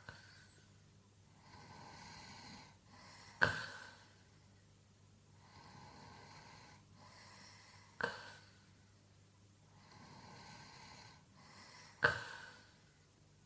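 A sleeping man snoring: three sudden snorting snores about four seconds apart, each starting sharply and fading away, with softer breaths between them.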